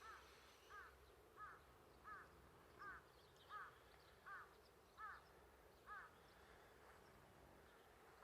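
A crow cawing faintly, nine caws in an even series about two thirds of a second apart, stopping about six seconds in.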